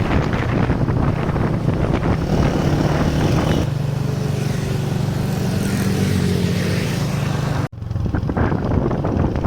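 Road vehicle on the move: a steady engine hum with road and wind noise. It changes abruptly about three and a half seconds in and breaks off for an instant near the end, as if cut.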